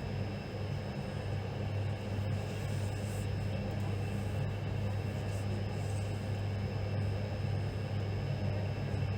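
Steady low rumble and hum of an Indian Railways train, with a faint steady high-pitched whine over it.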